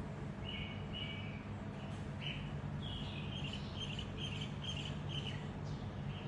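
Small birds chirping in short high notes: a couple of chirps near the start, then a quick run of about six, over a steady low hum.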